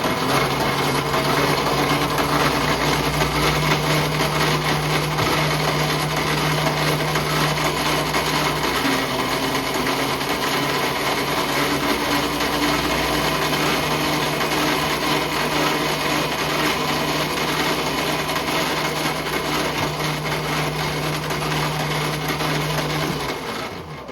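Lathe running through a facing cut: a steady machine drone with a constant hum, winding down and stopping just before the end.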